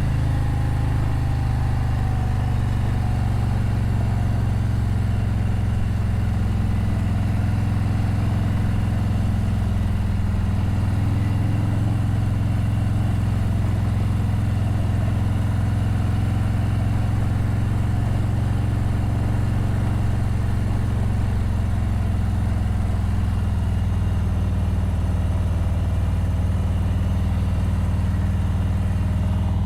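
Harley-Davidson motorcycle's V-twin engine running at a steady low speed, with no revving or change in pace, heard from on the bike.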